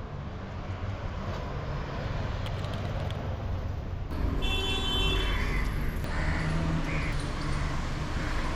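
Road traffic noise, a steady rumble of passing vehicles, with a short car horn toot about halfway through.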